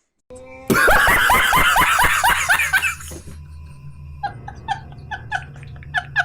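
Laughter meme sound effect. A loud burst of rapid laughing runs for about two seconds, then gives way to softer, quick snickering over a low hum.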